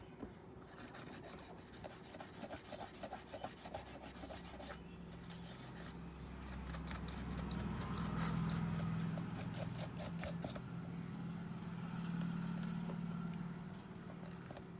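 Scraping, rubbing and rapid clicking, heard in two spells, with a steady low hum that swells in the middle and fades near the end.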